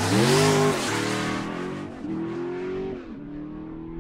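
Car engine revving several times, each rev rising in pitch and then levelling off, loudest at the start and easing off toward the end.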